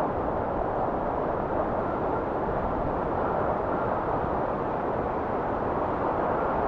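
Blizzard wind blowing steadily, a low, even rushing noise with no gusts or breaks, getting a little louder at the very end.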